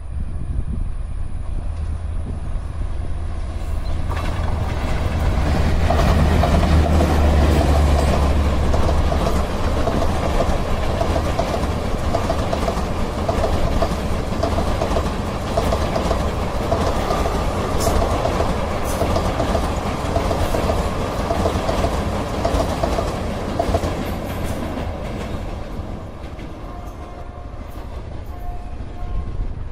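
Express train passing close by: an electric locomotive goes by with its loudest low rumble about six to nine seconds in, followed by a long rake of ICF passenger coaches with steady wheel clickety-clack over the rail joints, fading as the train moves away near the end.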